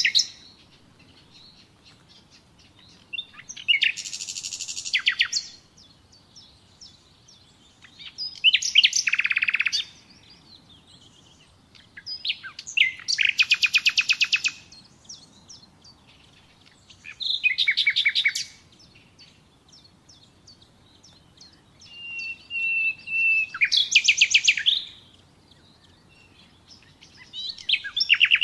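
Nightingale singing: short song phrases every four to five seconds, each a fast run of repeated notes, and one, about two thirds of the way through, opening with a long steady whistle before its trill.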